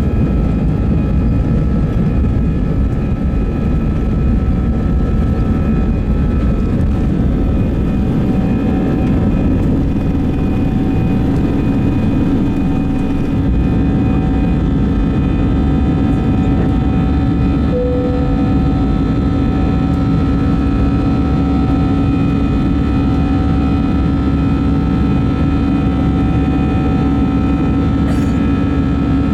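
Airbus A320's jet engines at high thrust during takeoff, heard from inside the passenger cabin: a loud, steady rush of noise with several steady humming tones running through it.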